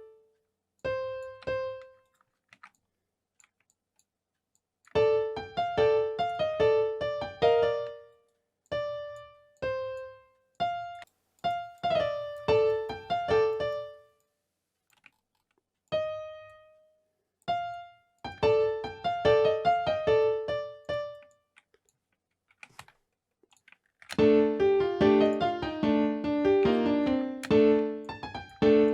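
A piano-like keyboard sound plays short melody phrases, stopping and starting with silent gaps between them, as a beat's melody is worked out note by note. About 24 s in, a fuller looping pattern with an added lower part starts.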